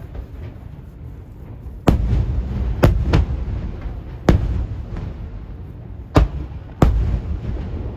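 Aerial firework shells bursting overhead: about five sharp booms a second or so apart, each trailing off in a low rumble.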